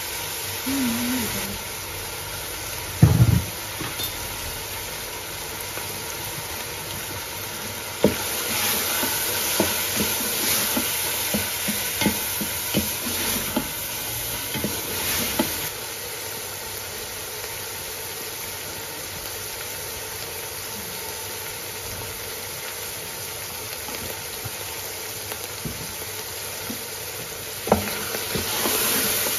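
Minced meat and tomatoes sizzling in oil in a stainless steel pot, with a wooden spoon stirring and scraping against the pot. The clicks and scrapes come thickest from about eight to sixteen seconds in and again near the end. A brief low thump about three seconds in is the loudest sound.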